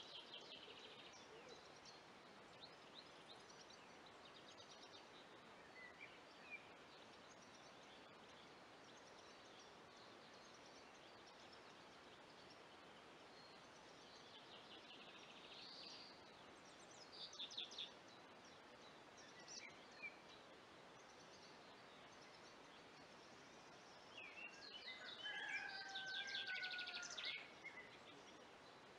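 Wild birds calling and singing in scattered short chirps and trills over a faint steady hiss, with a louder, busier passage of song a few seconds before the end.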